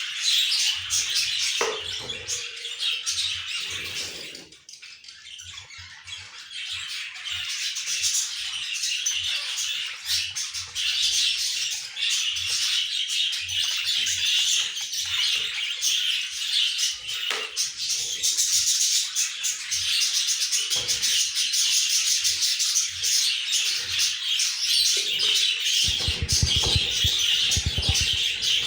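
Budgerigars chirping and chattering continuously in a busy, high-pitched twitter, with a few low thumps near the end.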